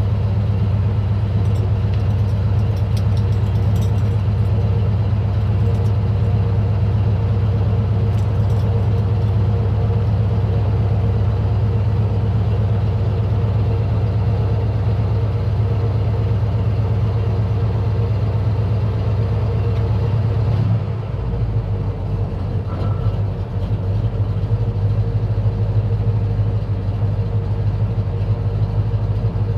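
1969 Camaro engine idling steadily through a Magnaflow exhaust, a deep even drone. About two-thirds of the way through, the idle note shifts and drops slightly in level.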